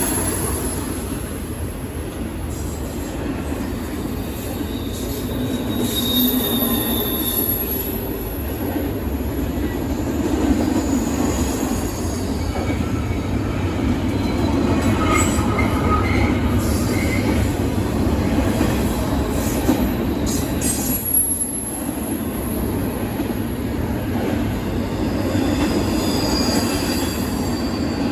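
CN intermodal freight train rolling past: a steady rumble of wheels on rail, with high-pitched wheel squeal now and then.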